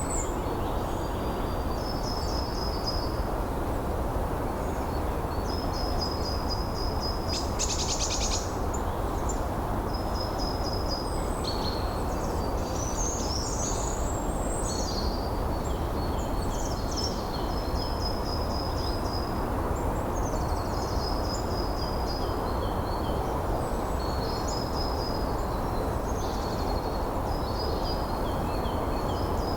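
Small songbirds singing short, repeated high trills and phrases, one after another, over a steady rush of wind. About eight seconds in, a rapid burst of sharp notes stands out above the rest.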